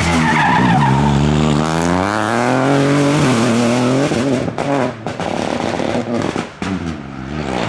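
Rally car engine revving hard, its pitch climbing and dropping with the gear changes. A series of sharp cracks comes about halfway through as the throttle is lifted, then the sound falls away.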